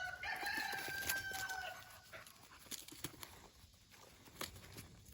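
Rooster crowing once, a single call of about two seconds that drops slightly in pitch at the end.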